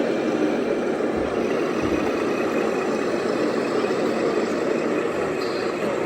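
A steady, even engine drone like a heavy truck idling.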